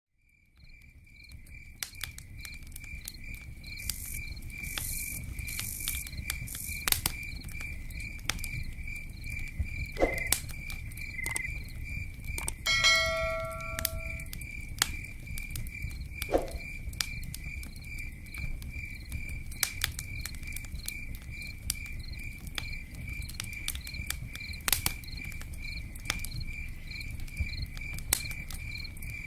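Nature ambience fading in: crickets chirping in a steady pulse over the sharp pops and low rumble of a crackling campfire. A brief bell-like ring sounds about 13 seconds in.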